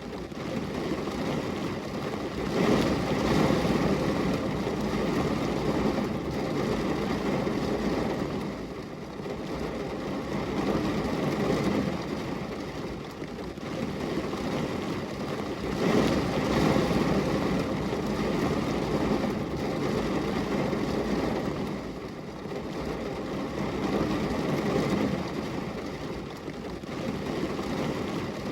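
Rain falling steadily as a continuous hiss that swells and eases every few seconds.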